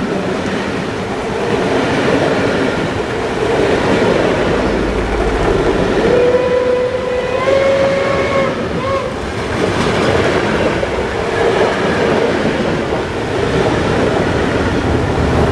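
Steam locomotive 023 058-1, a German class 23, working a train past with wheels clattering on the rails. About six seconds in it gives one long whistle blast that steps up slightly in pitch, followed by a short toot.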